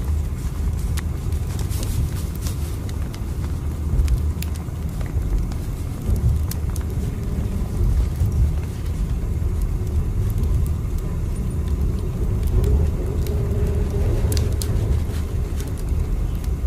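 Steady low rumble of a moving train, with scattered light clicks and rattles throughout.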